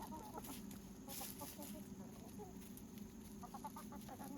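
Free-range chickens clucking softly: scattered short, low clucks, thickest near the end.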